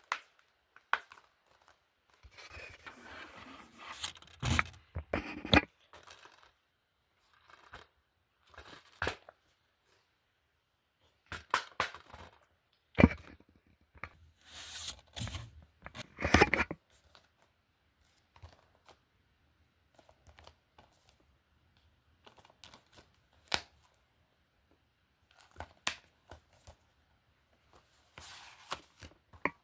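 Irregular handling noises: sharp clacks, scrapes and rustles, in short clusters with quiet gaps between, as film disc cases are picked up and moved.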